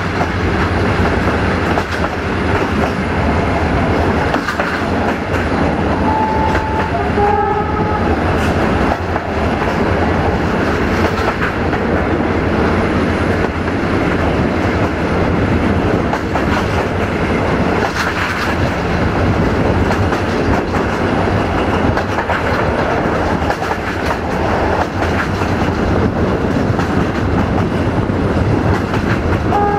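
Passenger train running along the line, heard from aboard: a steady rumble with wheels clicking over the rail joints. The locomotive's horn sounds two short notes about six and seven seconds in.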